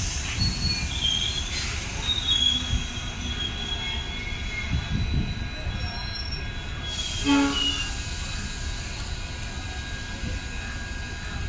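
Train wheels squealing on the rails, several high squeal tones over a low rumble of rolling stock. A short horn blast sounds about seven seconds in.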